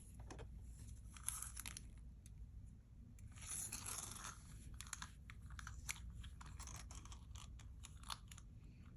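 Faint handling sounds of a piece of costume jewelry being turned over and laid out: soft rustling and a scatter of small clicks, busiest in the second half.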